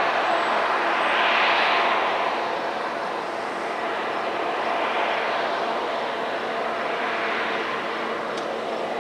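Steady noisy roar of a receding train's cars and caboose rolling on the rails, swelling about a second in and again around five and seven seconds.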